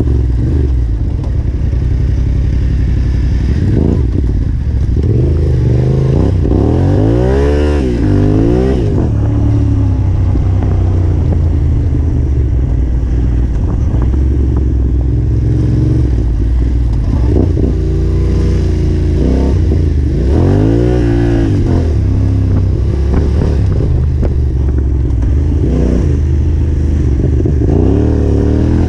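Yamaha Ténéré 700's parallel-twin engine running hard on dirt trail, its revs repeatedly climbing and dropping as the throttle opens and closes, with the biggest swings about a quarter of the way in, about two-thirds through and near the end.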